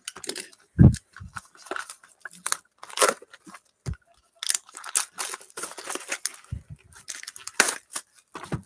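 A sealed hobby box of Donruss Optic football cards being unwrapped and opened by hand: plastic wrap tearing and crinkling and cardboard rustling in irregular bursts, with a few dull thumps of the box against the table.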